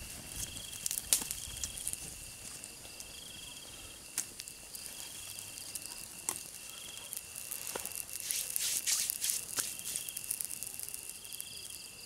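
Night insects: a steady high trill with a shorter chirp repeating about every second and a half. Over it, sharp crackles from a campfire, most frequent around eight to nine seconds in.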